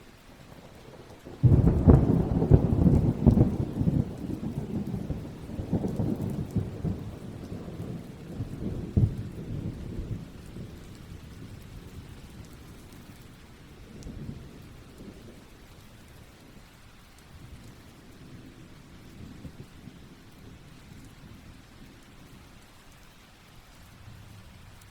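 A thunderclap breaks about a second and a half in and rolls on, rumbling and crackling for several seconds before fading, with a smaller rumble later. Steady rain falls throughout.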